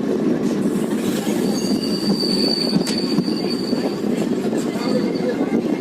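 Passenger train running on the rails, heard from on board as a steady rumble, with a high wheel squeal that starts about a second and a half in and lasts a couple of seconds.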